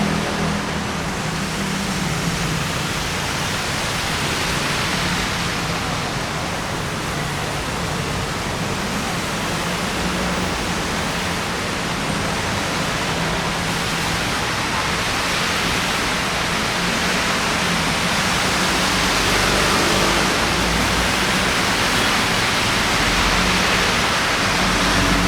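Steady rain with wet-street traffic: an even hiss throughout, with a low engine hum underneath.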